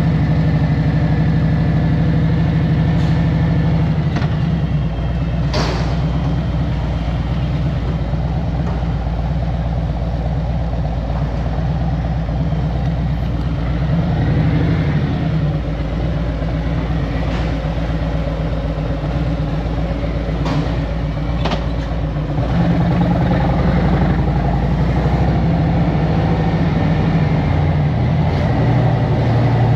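Harley-Davidson Road Glide Special's Milwaukee-Eight 114 V-twin running at low revs in traffic, its engine note shifting a couple of times, with a few sharp clicks.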